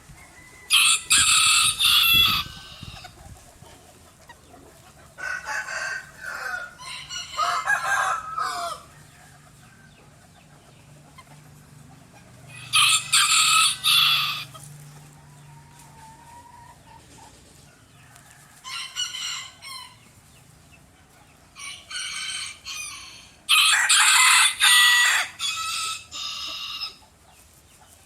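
Bantam (garnisé) roosters crowing in turn, several loud crows spaced a few seconds apart, the loudest near the start, in the middle and near the end, with quieter calls between.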